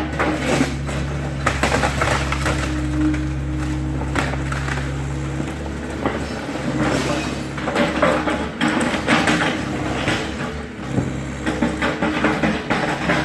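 Excavator engine running steadily while the machine crushes and tears apart the wooden garage: repeated irregular cracking, splintering and crashing of breaking timber and falling debris over the engine hum.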